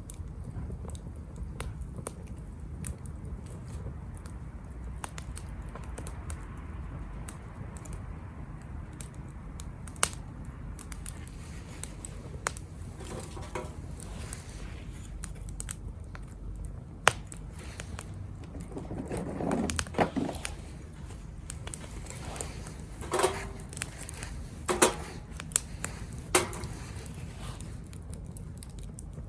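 Wood fire burning in a small Captain Stag Kamado Smart Grill B6: a steady low rumble with scattered crackles and a few sharper, louder pops through the second half.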